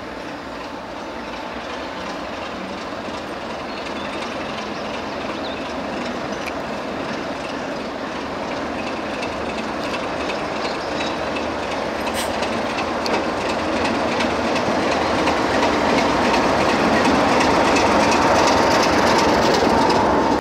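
Train running along the track, a dense running noise with faint clicks that grows steadily louder throughout.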